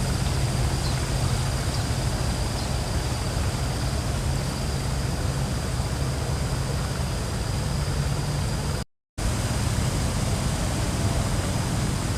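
Wind blowing across the microphone: a steady low rumble with a hiss over it, cut off by a brief dropout about nine seconds in.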